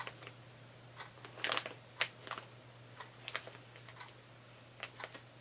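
A bag being handled and opened, crinkling and rustling in short, scattered crackles.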